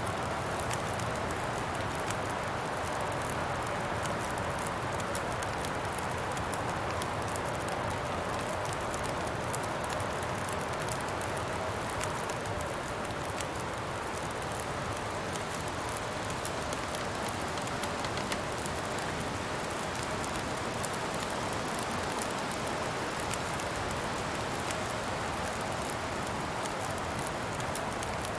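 Steady wind blowing, with a faint wavering whistle in it, over a crackling campfire that gives many small sharp pops.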